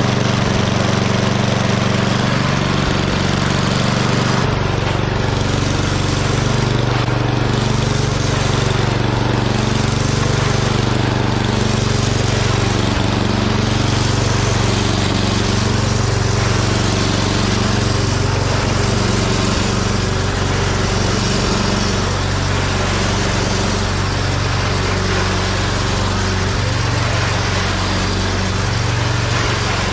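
Murray Ultra 8/27 snowblower's 8 hp engine running steadily, its pitch wavering slightly every second or two, with a change in the low tone about four seconds in.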